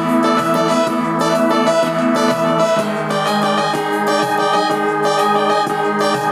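Yamaha PSR-S950 arranger keyboard playing a lead voice, a melody over several notes held at once.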